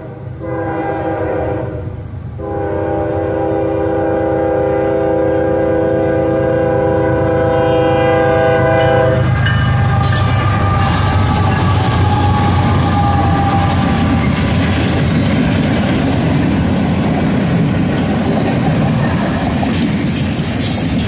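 Freight locomotive's multi-note air horn sounding for a road crossing, with a brief break at the start and another about two seconds in, then one long blast that stops about nine seconds in. The diesel locomotives then rumble past close by, followed by tank cars rolling by with wheels clacking over the rail joints.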